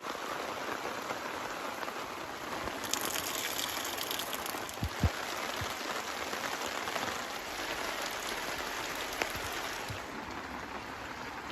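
Steady rain falling, a continuous hiss with a few heavier drops thudding, the clearest about five seconds in.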